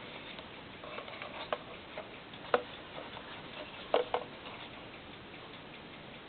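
Handling of a small Poppy Sound radio receiver: a handful of sharp, irregular clicks over a steady faint hiss, the loudest about two and a half and four seconds in.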